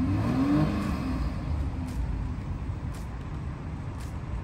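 BMW X5 xDrive40i's turbocharged six-cylinder engine pulling away, heard from inside the cabin: a low rumble with an engine note that rises during the first second, then settles. Faint ticks come about once a second.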